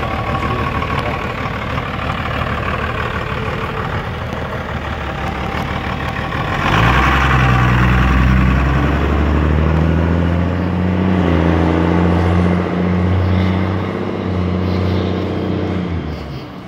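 Twin-turbo 24-valve 5.9 Cummins diesel running steadily, then going to hard throttle about seven seconds in: a sudden louder, deep, steady drone that holds for about nine seconds with one brief dip and falls away near the end.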